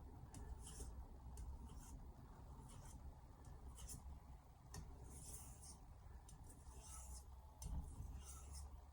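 Faint strokes of a carbon-steel knife blade sliding on a wet whetstone: a light scraping, repeated about once or twice a second, over a low steady hum.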